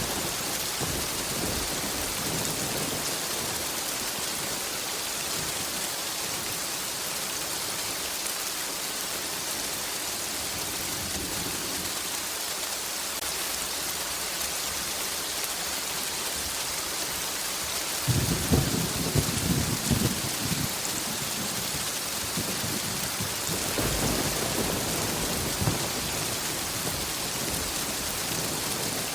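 Steady rain falling with thunder: a low rumble fading over the first few seconds, then a sudden sharp thunderclap with rumbling about two-thirds of the way through, followed a few seconds later by a softer rumble.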